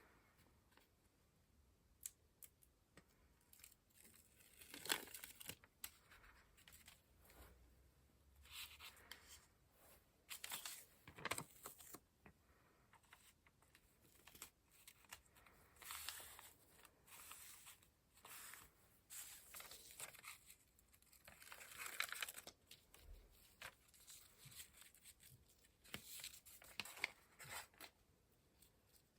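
Paper being handled and torn, quietly, in short crinkling, tearing strokes every few seconds, with light taps and rustles between.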